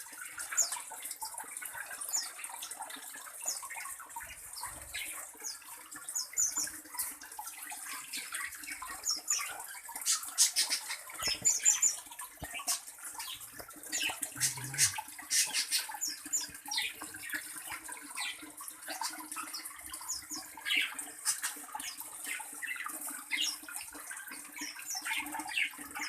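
Small birds chirping in short, quick, downward-swept notes, scattered irregularly through the aviary, over a steady high hiss.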